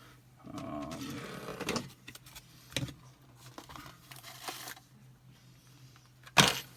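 Handling noise from small metal tools and parts: a rustle, a few light metallic clicks, and one sharp clack near the end.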